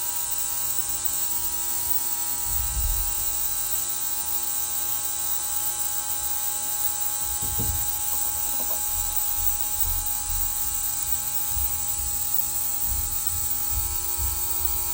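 Heated ultrasonic parts cleaner running, a steady electric buzz made of many even tones.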